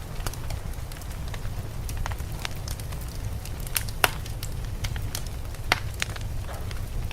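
Wood fire crackling in a fireplace: irregular sharp pops and snaps, the loudest about four seconds in and another near six, over a steady low rumble.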